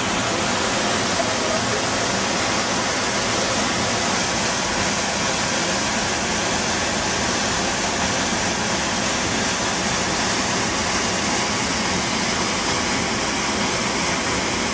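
Waterfall close by: falling water making a steady, even rush with no break.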